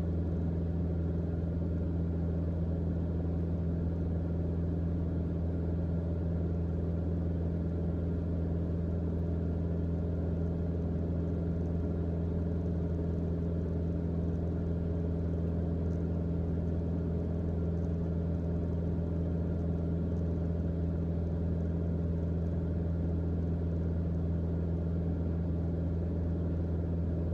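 Steady cockpit drone of a 1984 Mooney M20J's four-cylinder Lycoming IO-360 engine and propeller in cruise at about 68% power: an even, low hum with no change in pitch.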